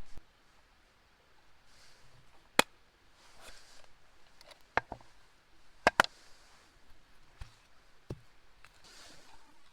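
A handful of sharp, separate clicks or knocks, two of them in quick succession about six seconds in, with soft rustling between them.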